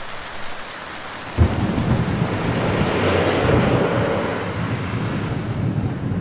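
Heavy rain falling steadily. About a second and a half in, thunder breaks suddenly and rumbles on under the rain.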